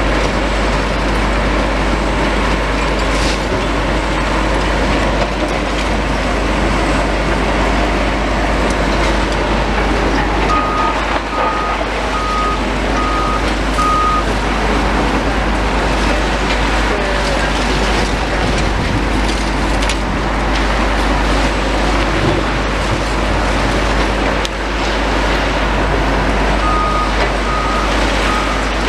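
Heavy demolition machinery running steadily with a dense churning noise. A reversing alarm on one of the machines beeps about five times a little over ten seconds in, and starts beeping again near the end.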